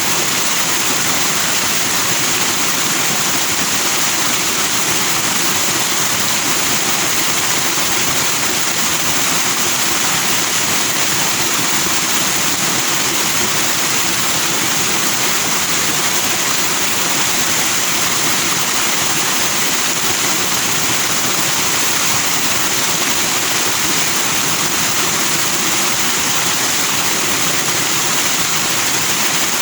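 Forest stream rushing over rocks in white foam, a steady, even rush of water.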